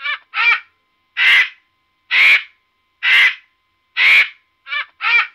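Large bird calling: a loud, rasping call repeated about once a second, five times, with shorter, higher, more tuneful calls at the start and again near the end.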